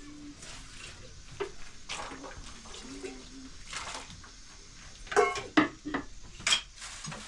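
Intermittent clinks and clatters of handled objects, a quick cluster of them about five to six and a half seconds in.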